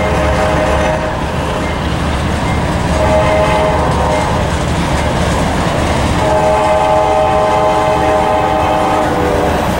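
Tank cars of a freight train rolling past with steady wheel-and-rail noise and some clickety-clack. Over it, the horn of the distant lead CSX AC4400CW locomotive sounds as a chord: a short blast at the start, another about three seconds in, then a long blast from about six seconds in until just before the end.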